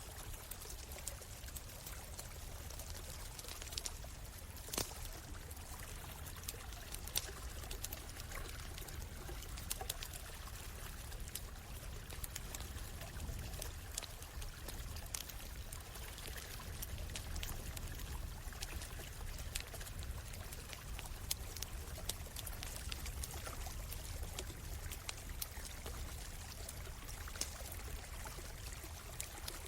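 A stream running steadily, with irregular sharp crackles and pops from a campfire over it.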